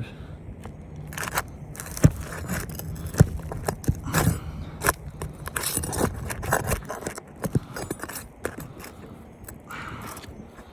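A hand tool scraping and clicking against asphalt shingles and roofing nails in irregular strokes as a shingle is pried up from underneath, with a few sharper knocks.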